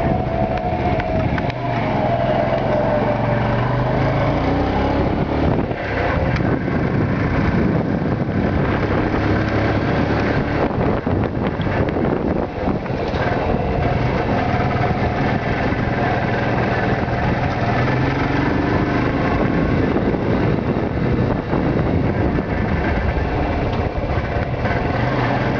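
Yamaha YBR motorcycle's single-cylinder four-stroke engine running steadily while riding along a forest road, its pitch drifting up and down a little with speed, mixed with a steady rush of wind and tyre noise.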